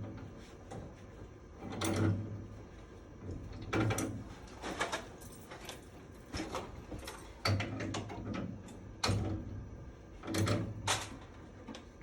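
Intermittent clicks and scrapes of work being done by hand, over a low hum that comes and goes.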